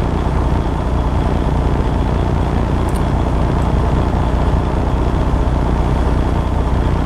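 Heavy truck's engine and road noise, a steady low rumble, with a faint click about three seconds in.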